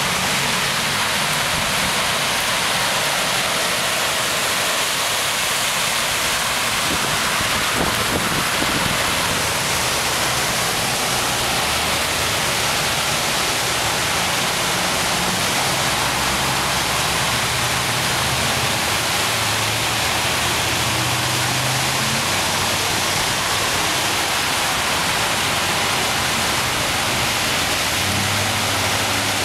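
Heavy rain during a flash flood: a steady, even hiss.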